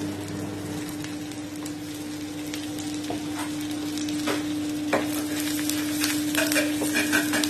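Chopped garlic frying and sizzling in melted butter in a pan, stirred with a spoon that scrapes and clicks against the pan more often in the second half. A steady hum runs underneath.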